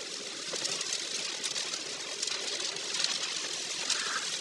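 A car driving through heavy typhoon rain: a steady hiss of rain and tyres on a wet road, with faint scattered ticks.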